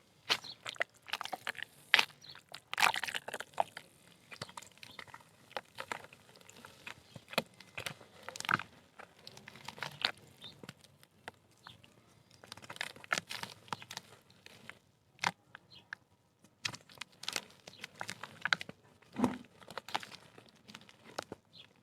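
Chunks of soft dirt being crumbled by hand: a run of irregular crunches and crackles, some sharper and louder than others.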